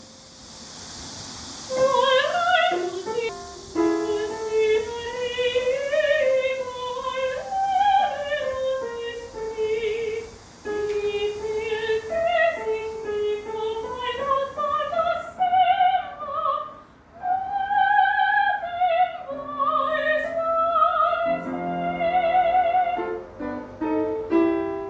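A woman singing a melody in an operatic style, with long held notes and vibrato on some of them. A faint steady hiss lies behind the first part and stops about halfway through.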